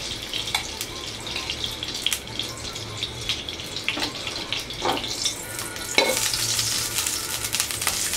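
Ghee heating and sizzling in a frying pan, with a few knocks of a utensil against the pan; the sizzle grows louder about six seconds in.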